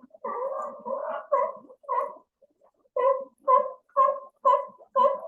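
Sea lion barking repeatedly: a string of short calls, about two a second through the second half.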